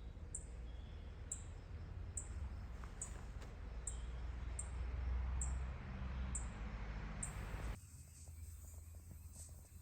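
A very high-pitched chirp repeating evenly, about three every two seconds, over a low wind-like rumble; the rumble drops away abruptly about three-quarters of the way through.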